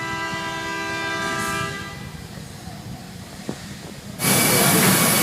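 A horn sounding one steady chord of several notes, cutting off about two seconds in. After a quieter stretch with a single click, a loud steady rushing noise starts near the end.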